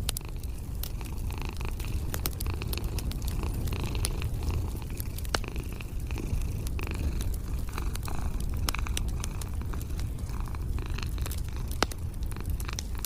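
A cat purring steadily and close, a continuous low rumble, with a wood fire crackling over it in frequent sharp pops.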